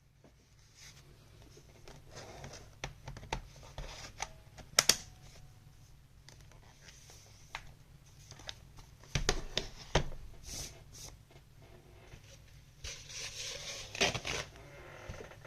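Handling noise from working on an open laptop: a scatter of small clicks and knocks from its parts, with crinkling and scratching in between. The loudest clicks come about five, nine and fourteen seconds in.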